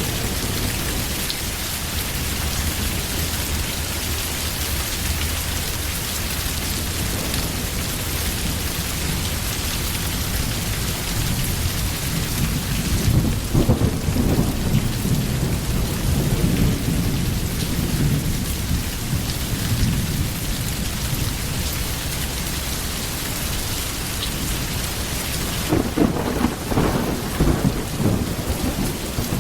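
Steady heavy rain with rolling thunder, which rumbles up about halfway through and again near the end.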